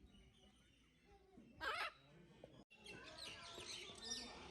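Aviary birds calling faintly: one louder warbling call about a second and a half in, then a quick scatter of many small chirps after a sudden cut.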